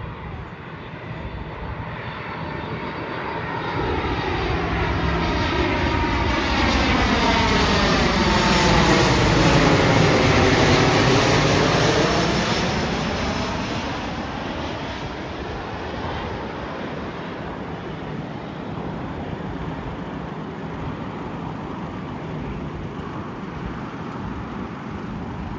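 Jet airliner passing overhead: its engine noise builds, peaks about ten seconds in with a sweeping, phasing whoosh, then fades away.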